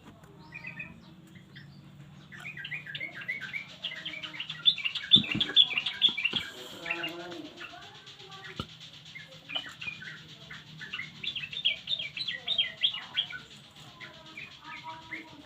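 Yellow-vented bulbul (trucukan) song: bubbly, rapid chattering phrases in two long bouts, over a faint steady low hum.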